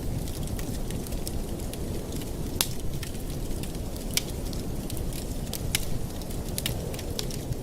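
Wood fire burning in a fireplace: a steady low rumble of flames with scattered sharp crackles and pops, the clearest about two and a half, four and five and a half seconds in.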